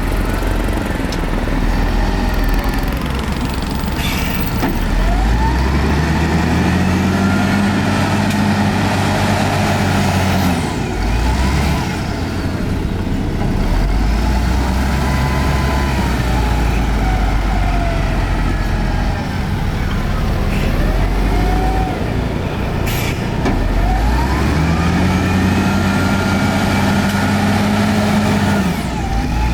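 Heavy diesel earthmoving machinery working: the engine note rises and holds under load, then drops back, twice, over a steady rumble with faint squeals.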